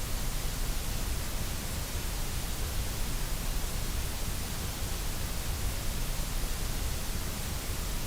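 Steady white noise: an even, unchanging hiss across the whole range from deep to high, with no breaks or changes.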